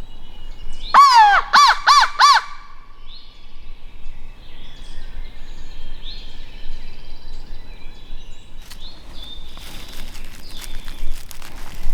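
A crow cawing four times in quick succession, loud calls about a second in. Fainter bird calls and a few light clicks follow.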